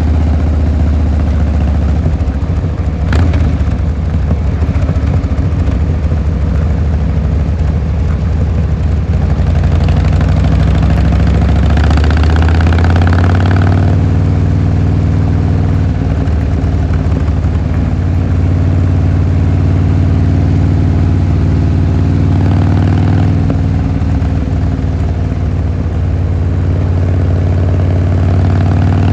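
Harley-Davidson Fat Boy Lo's V-twin engine and exhaust running under way, climbing in pitch as the bike accelerates about eight to ten seconds in, then holding a steady note, and rising again near the end. A short sharp click about three seconds in.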